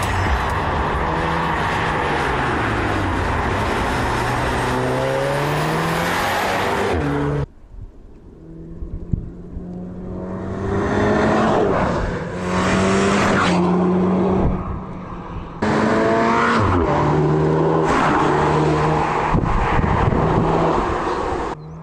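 2019 Audi TTS's turbocharged 2.0-litre four-cylinder engine pulling under acceleration, its pitch rising through the revs several times. The sound cuts off suddenly about seven seconds in and comes back in short edited stretches.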